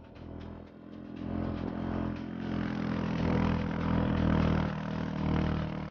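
A vehicle engine running steadily, growing louder from about a second in as it comes closer, then cutting off abruptly.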